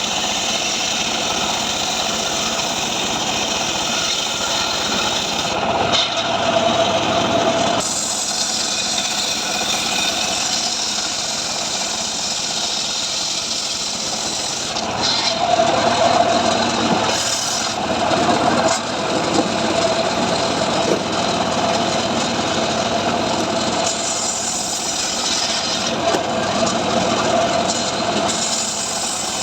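An engine-driven saw runs steadily while cutting dry mahogany, the engine loading up and getting louder around six seconds in and again between about fifteen and nineteen seconds.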